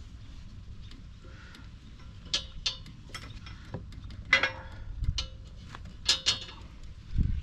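Small ratchet strap's buckle being worked by hand: a string of sharp, irregular metallic clicks with a short ring, and a dull thump near the end.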